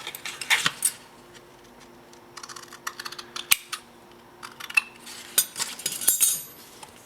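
A cardboard repair-patch pattern being handled and fitted by hand: scattered light taps, clicks and rustles, busiest near the start, around the middle and towards the end.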